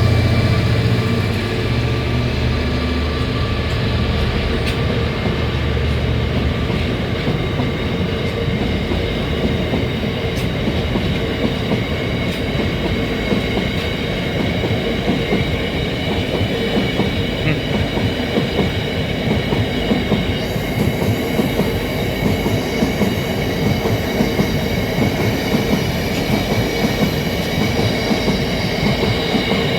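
Long freight train rolling past: a deep engine hum fades over the first several seconds, then the wagons' wheels keep up a steady, dense clatter on the rails with faint high ringing from the wheels.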